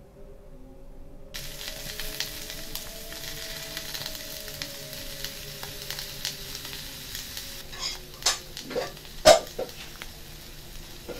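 Food sizzling in a frying pan, starting about a second and a half in and running on steadily under faint held tones. Near the end come a few sharp crunches, the loudest about nine seconds in.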